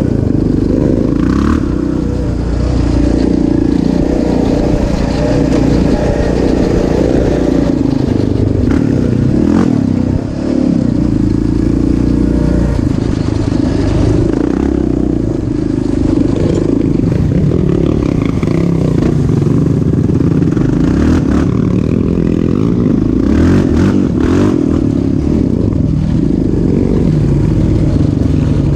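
Off-road motorcycle or quad engine running continuously, its pitch rising and falling with the throttle, with scattered rattles and knocks.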